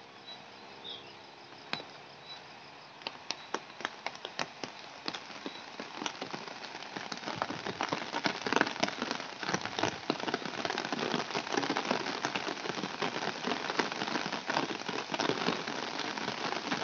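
Rain starting to fall: a few scattered drops ticking at first, thickening after about three seconds into a dense, steadily building patter.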